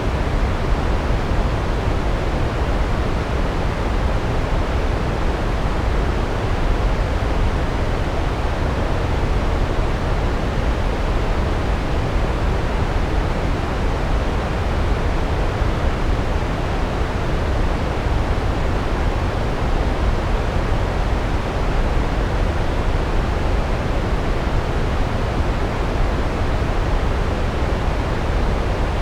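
Large waterfall: a steady, heavy rush of falling water, deepest in the low end, unchanging throughout.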